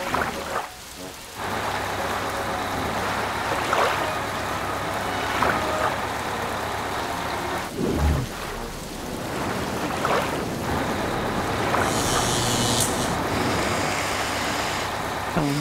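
Heavy rain sound effect, with a steady low rumble underneath and a few brief swishes and splashes through the flood water.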